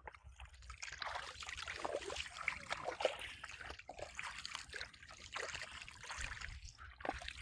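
Shallow water trickling and splashing, with many small irregular splashes.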